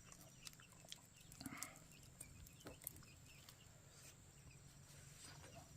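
Near silence: a faint low hum with scattered faint ticks.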